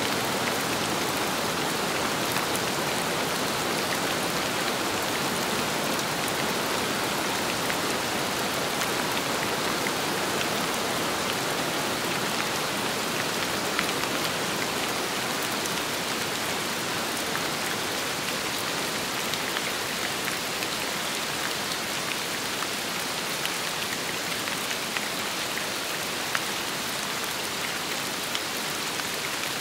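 Steady rain with wind, an even wash of noise sprinkled with individual drops ticking on a surface; it eases slightly toward the end.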